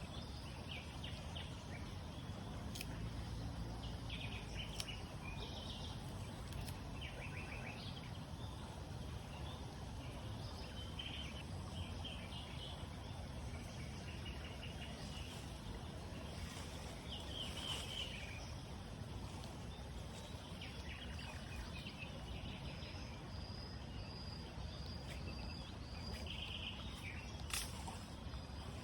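Outdoor ambience: a steady low rushing noise with scattered short, high chirping calls and a few sharp clicks, the loudest click near the end.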